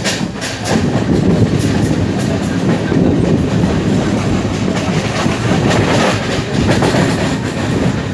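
Passenger train running on the rails, with a steady rumble and wheels clicking and clattering over rail joints.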